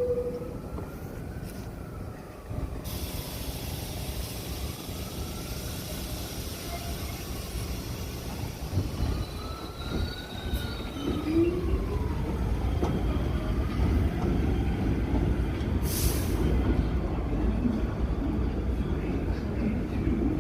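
New York City subway train running through the station with a steady rumble that grows louder in the second half, its propulsion motors whining up and falling in pitch several times. There is a short burst of air hiss about sixteen seconds in.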